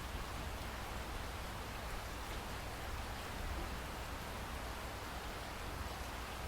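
Steady rain falling, an even hiss with a constant low rumble underneath and no distinct thunderclap.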